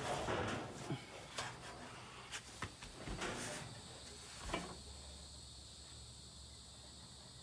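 Scattered clicks and knocks of dryer parts and tools being handled, with a last sharper knock about four and a half seconds in, after which only a faint low hum remains.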